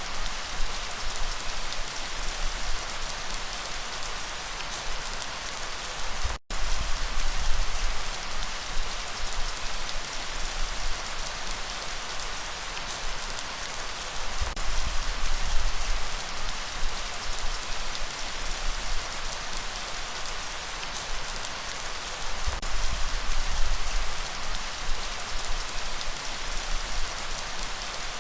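Steady rain falling and pattering on surfaces. The sound cuts out for an instant about six seconds in.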